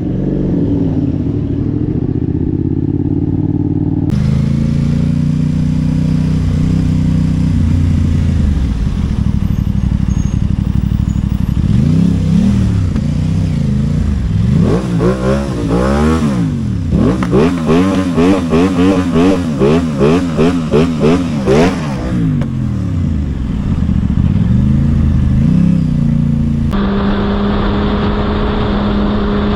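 Motorcycle engines running. In the middle stretch one engine is revved again and again, its pitch climbing and dropping in quick succession for several seconds.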